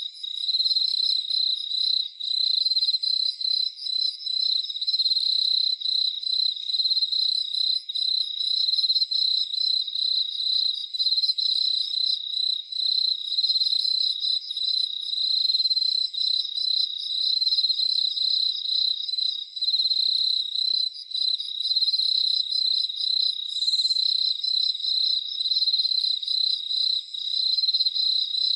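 Crickets chirping in a steady, fast-pulsing high chorus.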